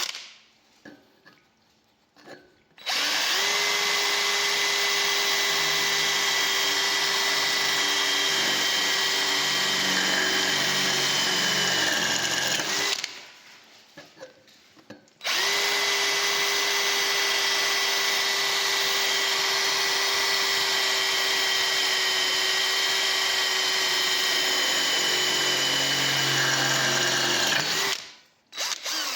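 Parkside PABS 20 Li G8 cordless drill motor running twice at steady speed, with a high whine, for about ten and thirteen seconds. Near the end of each run the pitch sags slightly before the drill stops.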